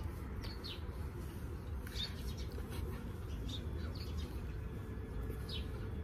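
Small birds chirping, short high calls every second or so, over a steady low rumble.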